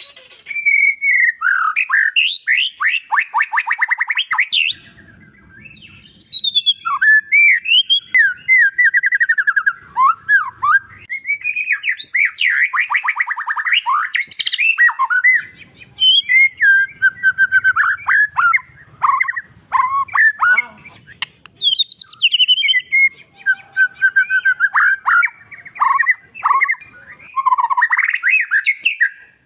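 White-rumped shama (murai batu) singing a long, fast, varied song of gliding whistles and rapid trills, in phrases of a second or two with short gaps. The song is full of 'isian', phrases copied from other birds' songs.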